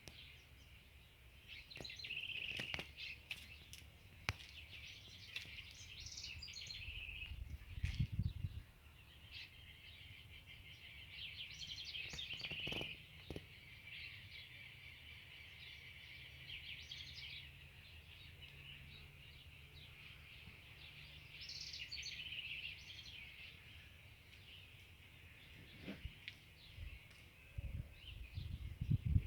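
Small songbirds chirping and twittering in repeated bouts. There are a few low thumps about eight seconds in and again near the end.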